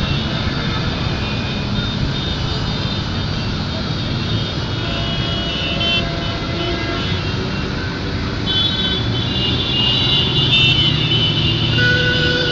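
Many motorcycles and scooters riding past in a continuous stream, their engines running and overlapping. The traffic noise grows louder about two-thirds of the way through.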